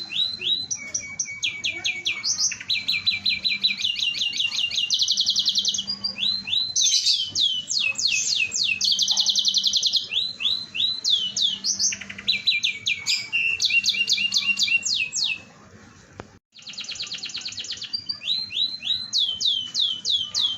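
Domestic canary singing: a long song of rapid trills, each a quick string of repeated high sweeping notes that switches to a new trill every second or so, broken by a brief gap about three-quarters of the way through.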